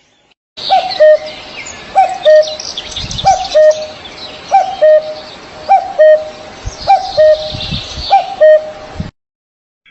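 Birds calling: a low two-note call repeated seven times, about every second and a quarter, over quicker high chirps and twitters from smaller birds. The sound starts and cuts off abruptly.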